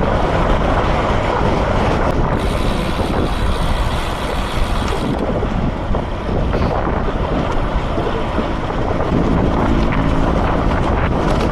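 Wind rushing over the microphone of a camera riding along on a moving bicycle, a steady noise, with a brief extra hiss about two and a half seconds in.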